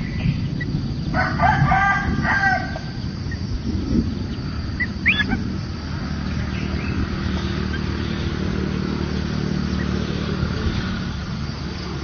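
A bird gives one loud call about a second and a half long, several pitched layers sounding together, then a short rising chirp about five seconds in, over a steady low hum.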